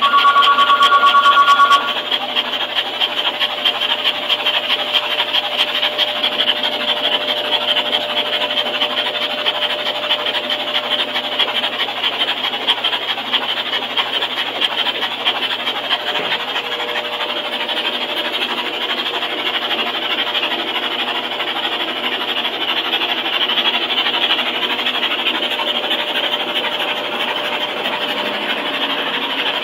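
Engine run-stand equipment running steadily during pre-oiling of a rebuilt 427 big-block: an even whirring hiss. It opens with a loud two-tone beep that lasts about two seconds.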